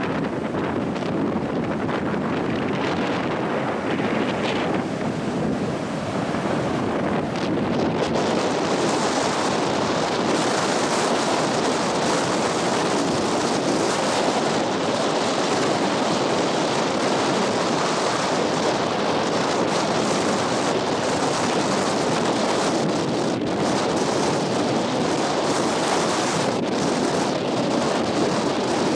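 Strong coastal wind buffeting the microphone over the steady rush of ocean surf. The hiss turns brighter and slightly louder about eight seconds in.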